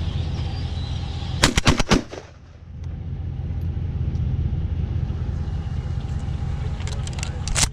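Gunfire at a flock of blackbirds: a rapid volley of five or six shots about a second and a half in, then a few lighter cracks and another shot near the end, over a steady low rumble.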